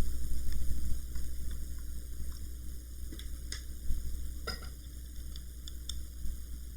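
Scattered light clicks and ticks of small screws and the laptop's drive bracket being handled, with one sharper click about four and a half seconds in.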